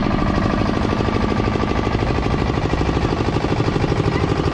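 Heavy construction machinery running close by, a loud, rapid, even pulsing with a steady hum.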